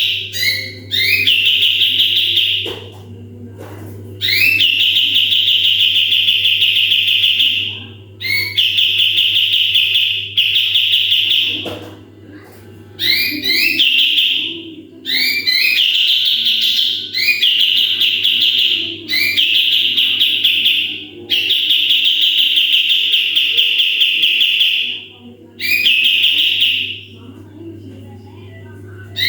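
Kapas tembak songbird singing its rapid-fire 'tembakan' phrases: about eight high, fast, buzzing trills, each two to four seconds long, with short pauses between them, over a steady low hum.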